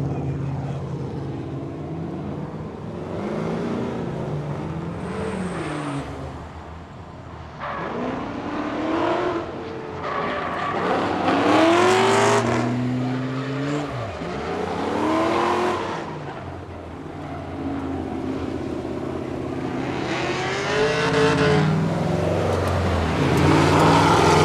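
Swapped LS2 V8 in a Hyundai Genesis Coupe revving up and down again and again while drifting, with tire squeal.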